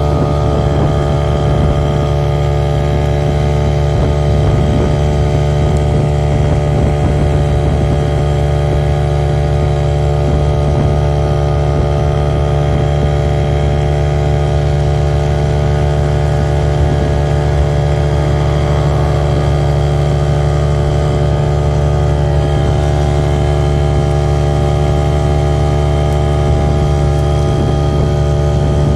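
Ferry's engine running steadily, a constant drone that holds the same pitch throughout.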